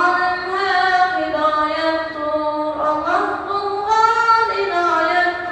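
A child singing an unaccompanied nasheed in a non-Arabic language, drawing out long notes that slide smoothly from one pitch to the next.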